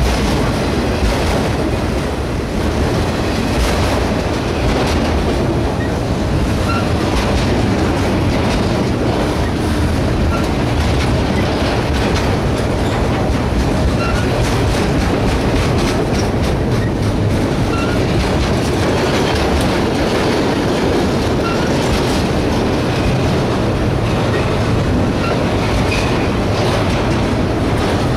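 Freight train of autorack cars rolling past at close range: a steady rumble of steel wheels on the rails with clickety-clack over the rail joints. A short, faint high squeak comes about every two seconds.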